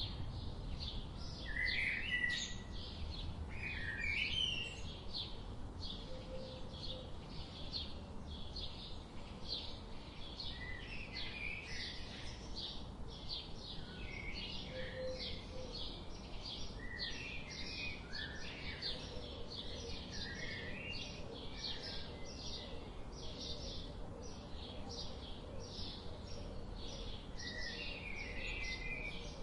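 Birds chirping and calling outdoors. Short high chirps repeat steadily, about two to three a second, while other birds add scattered lower, sliding calls, over a steady low background noise.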